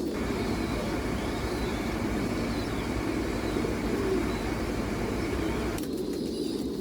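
Pigeons cooing in a chorus, with a steady noise laid over them that stops suddenly about six seconds in.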